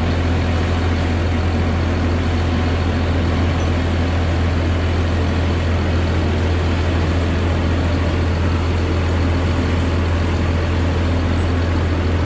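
Diesel engine of a Tigercat feller buncher running steadily at working speed, with a constant low hum and no breaks.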